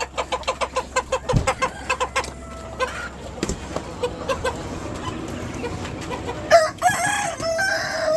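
Chickens clucking in a fast run of short calls, about six a second, that thins to scattered clucks, with a thump about a second in. Near the end a rooster crows, one long loud call that falls away at its tail.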